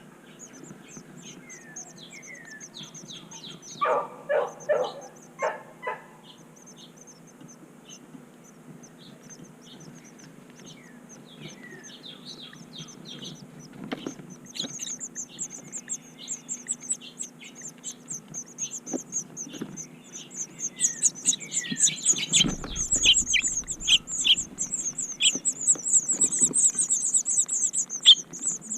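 Small birds chirping and calling in short, repeated notes. A run of five loud taps comes about four to six seconds in. From about halfway through, a fast high twittering builds and carries on, growing louder toward the end.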